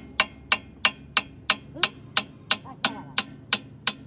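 Steady hammering on steel, about three sharp ringing blows a second, driving a truck's front-axle king pin home.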